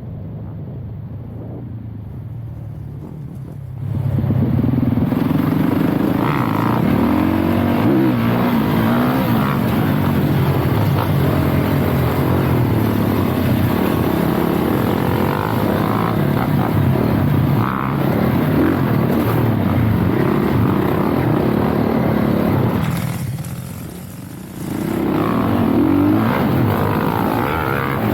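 Dirt bike engine, first running quietly at low revs. About four seconds in it opens up loudly, with revs rising and falling as the bike is ridden. The engine eases off briefly near the end, then pulls hard again.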